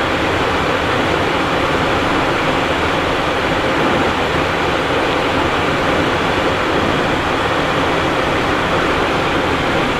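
Steady in-flight cockpit noise of a Cessna Citation Encore business jet: an even rushing hiss of airflow and engines with no change.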